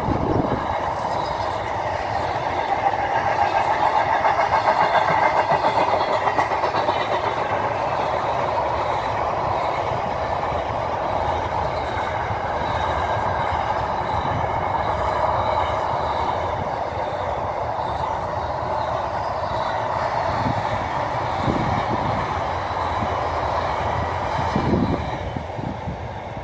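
Freight train's container wagons rolling past: a steady rumble of wheels on rail, with a regular clatter of wheels over rail joints. The noise falls away near the end as the last wagons pass.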